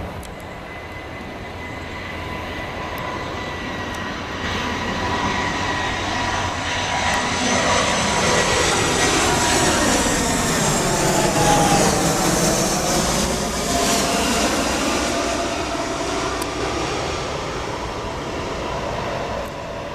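Jet engines of an Airbus airliner on final approach passing close by. The engine whine grows louder, peaks about halfway through, then fades, with its tones dropping in pitch as it goes past.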